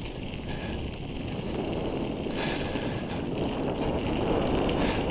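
Mountain bike riding along a dirt single-track trail: wind rushing over the microphone and tyre rumble, growing gradually louder.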